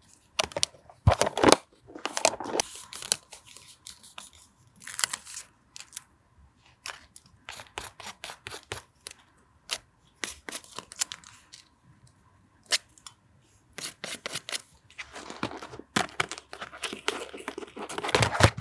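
Paper being torn and handled: short scratchy rips and rustles between sharp little taps, with a longer stretch of tearing near the end.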